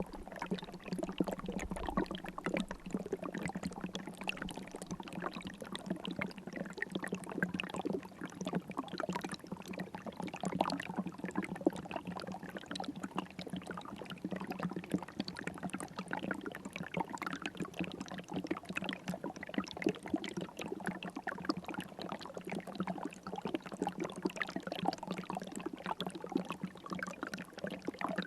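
River water running steadily over stones, a continuous babbling and splashing with a steady low hum underneath.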